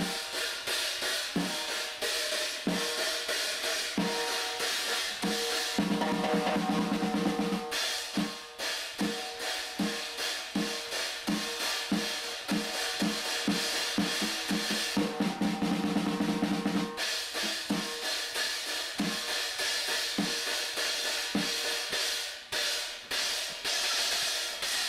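A drum kit being played: a steady run of drum strikes under constantly ringing cymbals, with stretches of rapid rolls.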